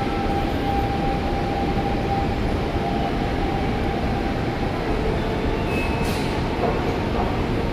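Hanshin Railway electric train moving through the station with a steady rumble. A steady whine fades out about three seconds in, and a short hiss comes near the six-second mark.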